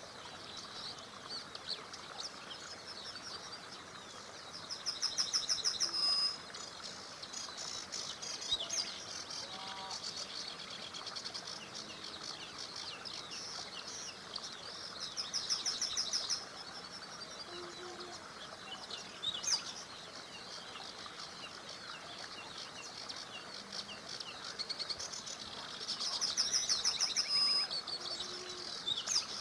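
Several songbirds singing. One repeats a loud, rapid trilled phrase of about a second and a half three times, roughly every ten seconds, while other birds chirp more softly in between over a steady background hiss.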